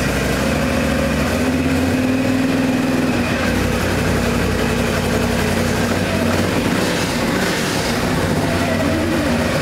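Can-Am Renegade ATV engine running steadily just after being started.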